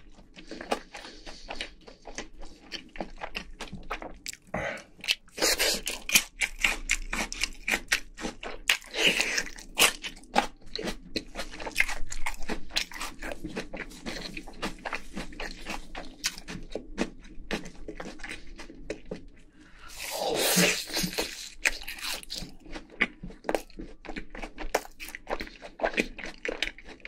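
Crispy fried food being bitten and chewed close to the microphone: a dense run of sharp, crackling crunches with chewing in between.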